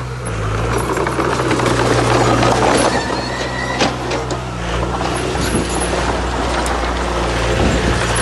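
Heavy diesel earthmoving machine running steadily under load, with a dense rattling, crunching clatter of stone over it and a single sharp knock about four seconds in.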